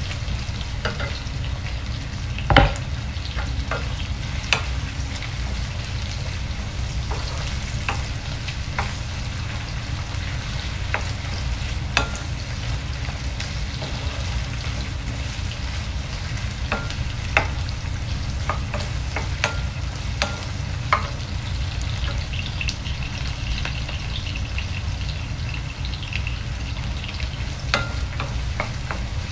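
Sliced onions and garlic sizzling in olive oil in a frying pan, stirred with a wooden spatula that clicks and scrapes against the pan now and then, the loudest knock about two and a half seconds in. A steady low hum runs underneath.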